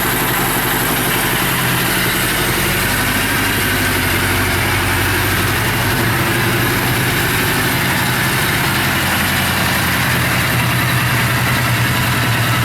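Suzuki GS750E's air-cooled inline-four engine idling steadily.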